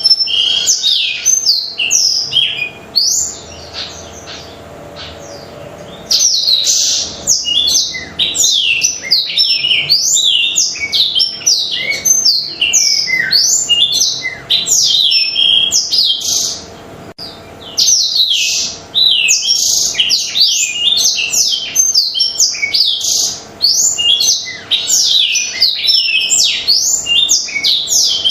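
Blackthroat (black-throated canary) in full, vigorous song ('gacor'): a fast, continuous run of high chirps and trills. The song breaks off for about three seconds near the start and briefly around the middle.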